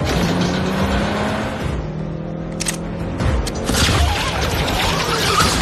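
Film action-chase sound mix: car engines running hard under a music score, with a few sharp hits a little past the middle.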